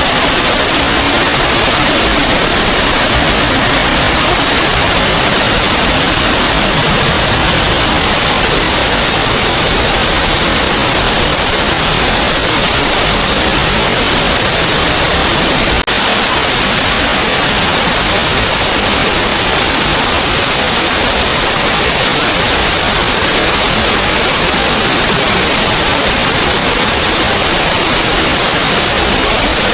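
Small waterfall's water rushing steadily at close range, an even, loud roar of falling water with a momentary drop about halfway through.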